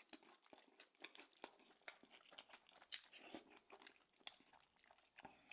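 Faint, close-up chewing of a mouthful of food: many small, irregular wet clicks and crunches.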